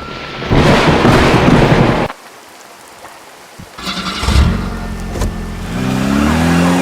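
A loud rushing noise that cuts off abruptly, then a motor vehicle engine revving, its pitch climbing.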